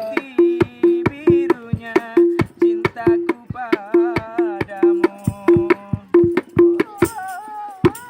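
Hadrah percussion ensemble playing: hand drums strike a fast, even rhythm under a short repeated low drum tone and a wavering melody line. A high jingling rattle joins in near the end.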